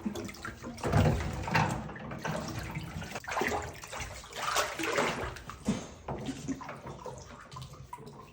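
Water splashing in a bathtub in irregular bursts, loudest about a second in.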